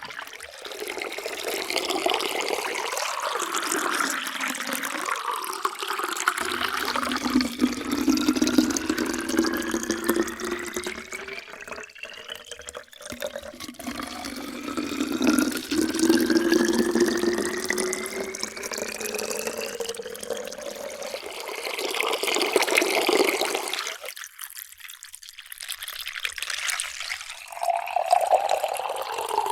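Water poured in a steady stream into a container, its hollow ringing note rising in pitch as the vessel fills. The pour stops about three-quarters of the way through, and a new pour begins near the end.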